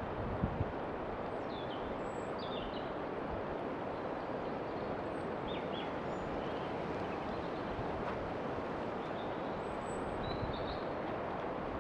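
Outdoor ambience: a steady rushing background noise with small birds chirping briefly now and then.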